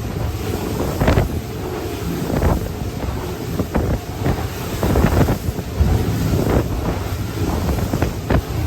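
Cape Horn 31 boat running through rough seas: a low rumble of the boat and rushing water with wind buffeting the microphone. A louder surge of water comes every second or so as the boat meets the waves.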